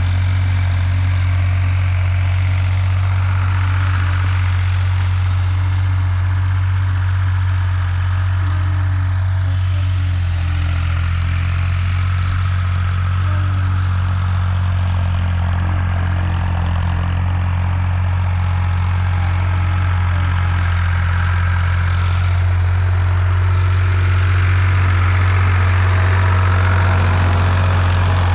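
Heavy diesel machinery engine running at a steady speed, a deep, even drone that holds the same pitch throughout.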